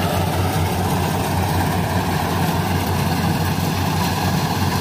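Kubota combine harvester's diesel engine running steadily, a loud, even low hum with no change in speed.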